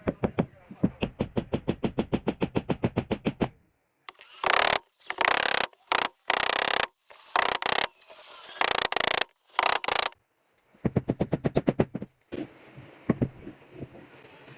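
Workshop tool noise: a fast, even run of taps for about three seconds, then several short bursts of loud hissing noise with brief gaps between them, then another short run of rapid taps.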